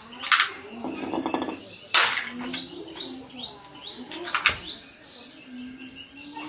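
Small birds chirping over and over, each chirp a short rising note. Three sharp knocks and a brief rattle of work noise cut through, about a second apart at first, then again a couple of seconds later.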